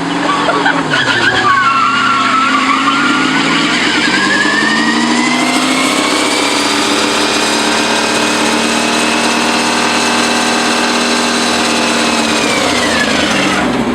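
A Volga car with a transplanted bus engine doing a burnout: the engine revs up over a few seconds, is held at high revs while the rear tyres spin and squeal, then the revs drop away near the end.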